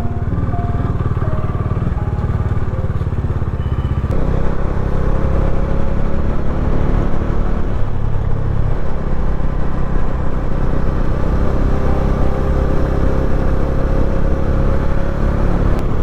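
Motorcycle engine running steadily under way, mixed with low wind rumble on the microphone. It gets a little louder and fuller about four seconds in.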